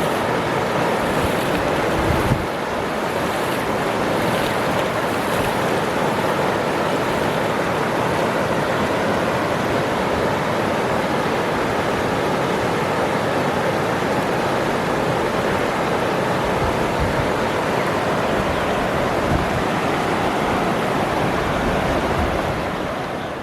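Waterfall, rushing water making a steady dense noise, with a brief low bump about two seconds in. It fades out at the end.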